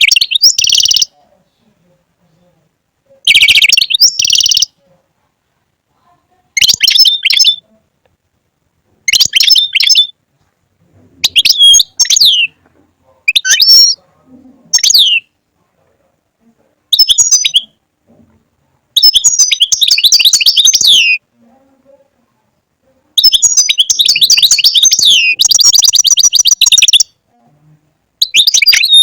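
European goldfinch singing: about nine bursts of fast, liquid twittering and trilled notes, each lasting from under a second to a few seconds, with short silent gaps between them; the longest phrase, about four seconds, comes near the end.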